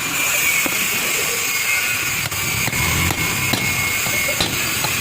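Small electric power tool running steadily with a high whine and scattered sharp clicks, during work on a diesel engine's cylinder head valves and valve seats.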